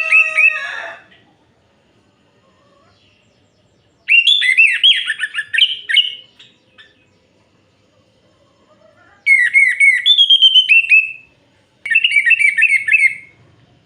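Orange-headed thrush singing: short, loud phrases of rapid whistled notes, each a second or two long, separated by pauses of a few seconds.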